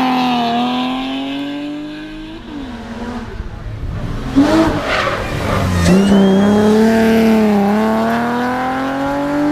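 Rally cars at full throttle through a bend. One car's engine fades away in the first two seconds. About four seconds in a second car arrives with a few sharp cracks, then accelerates hard, its engine note rising with a brief dip at a gearchange.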